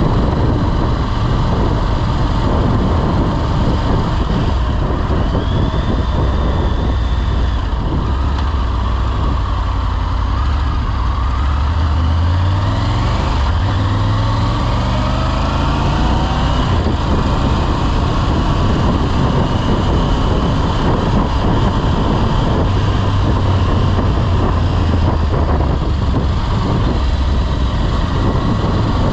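Motorcycle engine running on the move, with steady road and riding noise. The engine note climbs as it accelerates about halfway through.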